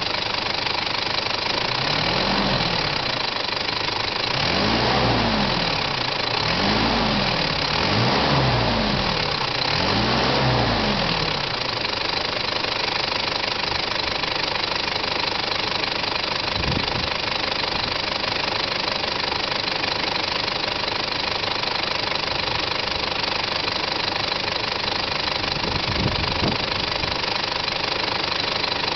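Mitsubishi Pajero's 4M40 2.8-litre four-cylinder turbo diesel idling with diesel clatter. It is revved several times in quick blips in the first half, each rev rising and falling, then settles back to a steady idle.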